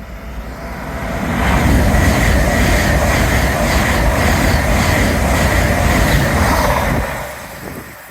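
A train passing through the station at speed: the rumble and wheel-on-rail noise build up, hold loud for about six seconds, then fall away sharply near the end as the train clears.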